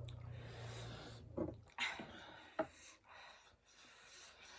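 A woman breathing hard and hissing through her mouth from the heat of spicy noodles, with a few short clicks in between.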